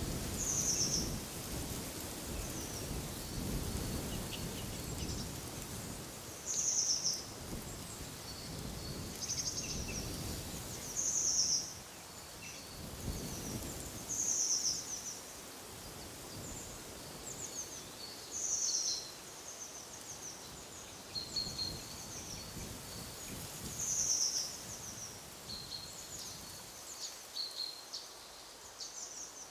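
Small songbirds calling: a short high call repeats every few seconds over lighter twittering. Wind gusts rumble underneath and die down about halfway through.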